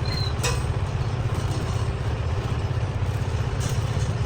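Heavy workshop machinery running with a steady, pulsing low rumble, with a couple of sharp metallic clicks.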